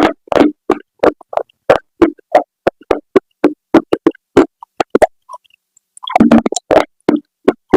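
Close-miked chewing of crunchy baked clay, about three crisp crunches a second, pausing for about a second past the middle before the chewing resumes.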